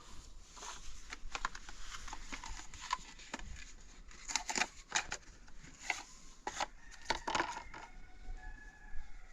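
Irregular clicks, knocks and clinks of small hard objects, with a short faint high tone near the end.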